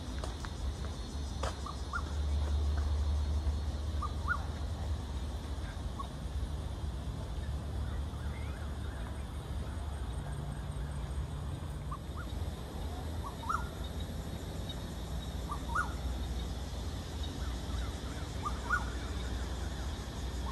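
A bird calling with short rising notes, repeated every two to three seconds, over a steady low rumble.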